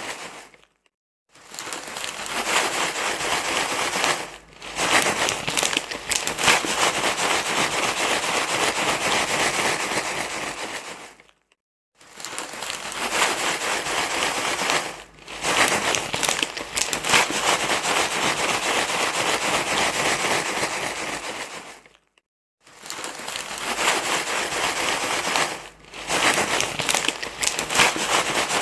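Loud, continuous crinkling rustle, a white-noise-like sound used to soothe a crying baby. It stops in short gaps about every ten seconds as the loop repeats.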